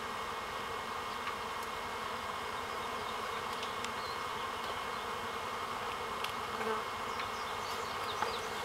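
A honeybee swarm buzzing: many bees in flight making a steady, even drone, with a few faint ticks.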